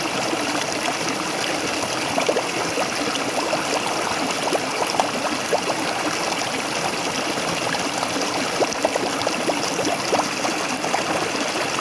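Waterfall water running in a steady rush, with many small bubbling, gurgling plinks.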